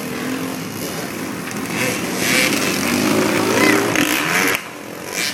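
Motocross dirt bike engines running and revving, the pitch rising and falling; the sound drops briefly near the end.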